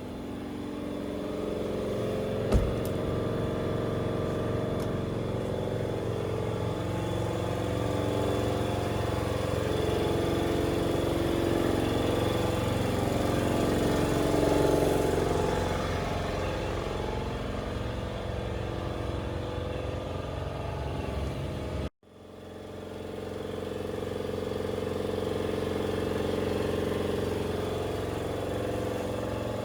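A motor vehicle's engine running, its pitch rising and falling, with a sharp tick about two and a half seconds in. The sound cuts out abruptly about 22 seconds in and fades back in.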